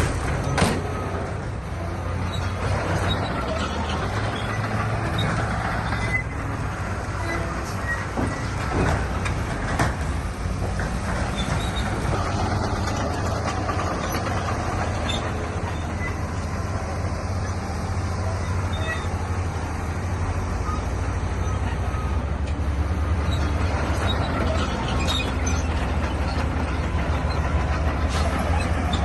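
Diesel engine of heavy earthmoving machinery running steadily under load, with a few sharp metallic clanks; the engine note shifts about two-thirds of the way through.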